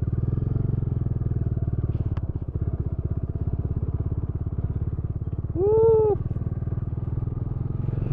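Motorcycle engine idling steadily with an even, rapid pulse. About six seconds in, a short pitched call rises and falls over the engine.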